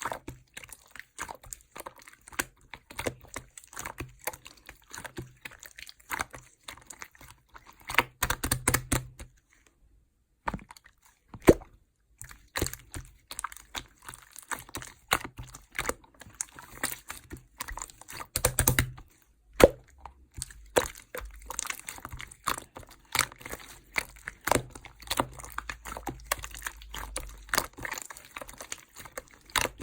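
Clear slime being squished and pressed by hand, giving a dense run of small clicks, crackles and pops, with a brief silent gap about nine seconds in.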